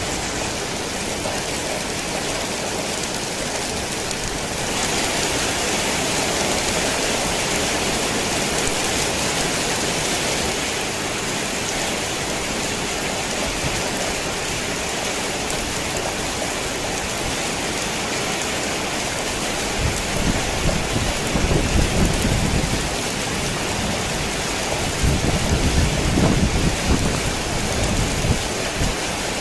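Torrential rain falling on a worn tin roof as a steady hiss, growing heavier about five seconds in. Two low rolls of thunder come in the second half.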